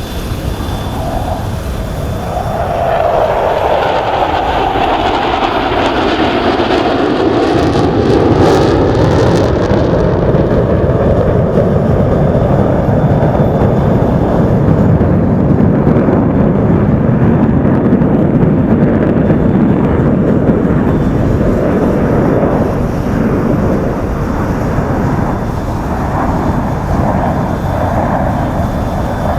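Su-30SM fighter jets' engines passing in a loud jet roar. The roar swells a few seconds in and its pitch slides down as the jets go by, then it holds as a steady, heavy rumble.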